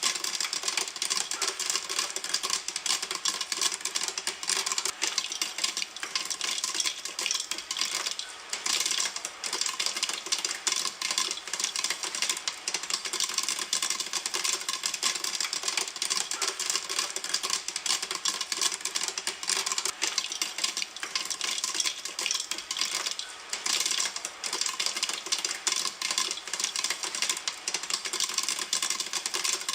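Popcorn kernels popping in a pan, a dense, continuous crackle of rapid pops.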